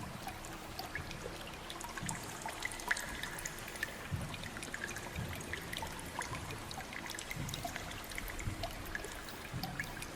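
Water trickling and dripping, with many small drips scattered throughout over irregular soft low knocks.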